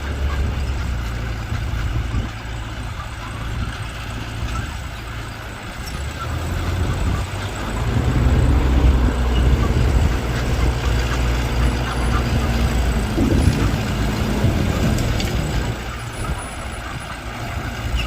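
Diesel engine of earthmoving machinery running with a steady low drone, growing louder about seven seconds in as it works harder.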